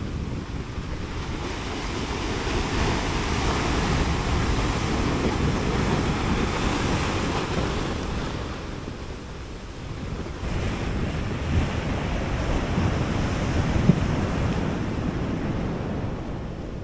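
Pacific surf breaking on the shore: a rushing wash that swells, eases about halfway through, swells again, then ebbs. Wind buffets the microphone underneath.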